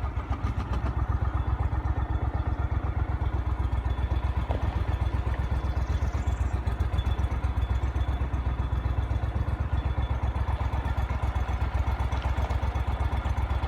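A small engine running steadily at low speed, with a fast, even pulse.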